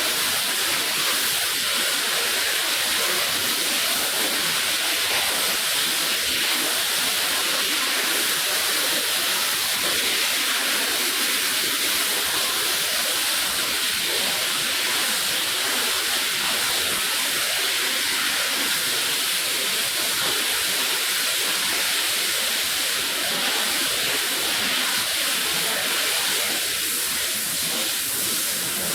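Water spray hissing steadily onto a wet rug during rinsing.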